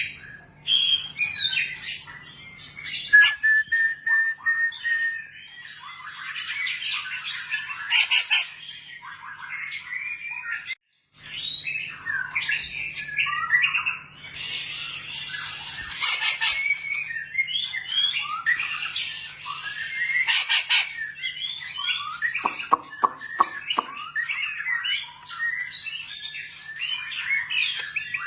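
White-rumped shama singing a long, varied song of whistled phrases, quick trills and chatters, with a few harsh rattling notes about three-quarters of the way through. A faint steady low hum runs underneath.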